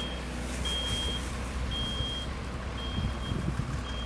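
A truck's reversing alarm beeping, a single high tone about once a second, each beep about half a second long, over a low steady rumble.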